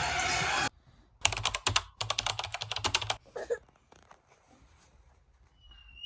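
A loud, even din cuts off abruptly under a second in, followed by about two seconds of rapid clicking, then near quiet.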